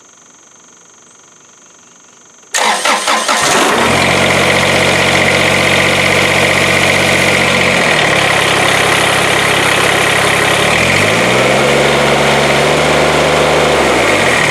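Kubota BX25D tractor's three-cylinder diesel engine cranked by the starter, catching about three seconds in and then running steadily with no belt squeal on its newly replaced alternator/fan belt. Near the end it is revved up and back down.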